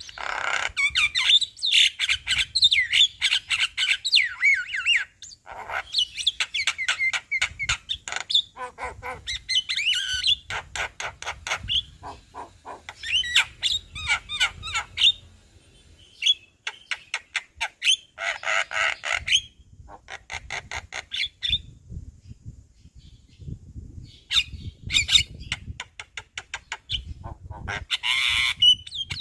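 Javan myna singing vigorously, showing off its repertoire: runs of harsh chatter, rapid clicks and warbled, gliding phrases, broken by short pauses.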